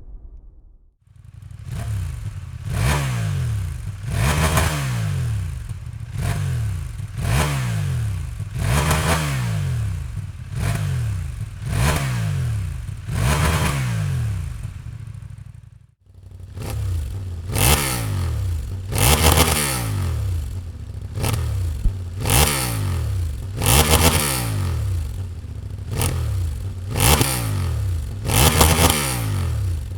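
CFMOTO 800MT-X parallel-twin engine revved in quick repeated blips, about one every second and a half, each rising and falling in pitch, through the stock exhaust. After a brief break about halfway, the revving continues through the stock silencer with the catalytic converter removed (decat), sounding louder and harsher.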